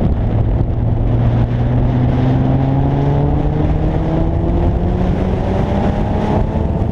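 Infiniti G37S's 3.7-litre VQ37 V6 running through a MotorDyne exhaust, its pitch climbing slowly and steadily as the revs build.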